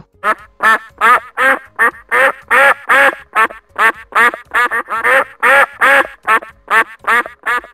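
A duck quacking over and over in a fast, even series of short quacks, about three a second.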